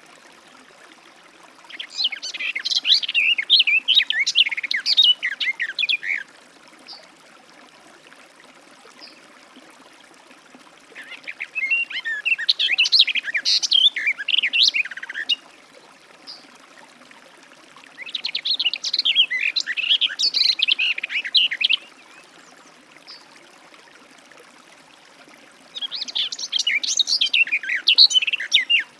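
Garden warbler singing: four long phrases of fast, rambling warbled notes, each lasting about four seconds, with pauses of several seconds between them.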